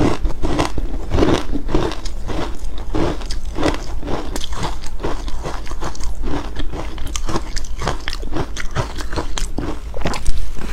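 A person biting and chewing shaped ice cubes close to the microphone: rapid crisp crunching and crackling, with a hard bite at the start and another near the end.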